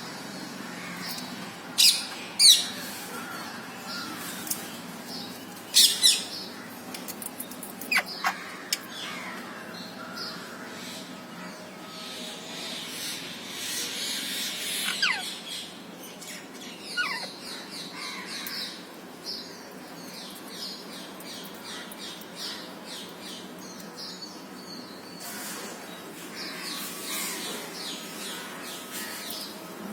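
Parrots calling: several loud, sharp screeches in the first few seconds, then a few downward-sliding calls and stretches of fast chattering.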